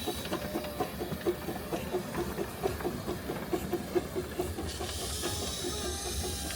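Small 15-inch-gauge steam locomotive running, its exhaust beating in a quick, even rhythm of about four to five chuffs a second, with a hiss of steam coming in about two-thirds of the way through.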